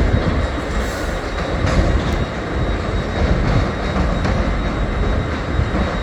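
A train moving through the station close by: a steady low rumble of wheels and running gear, with a few sharp clicks in the first two seconds.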